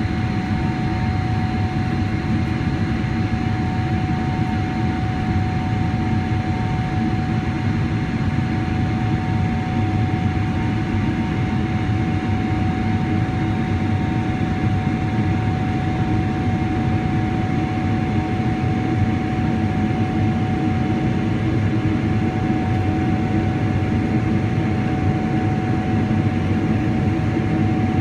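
Steady cabin noise of a Boeing 777-300ER, its GE90 jet engines and the airflow heard from inside the cabin: a heavy, even rumble with a thin steady whine above it.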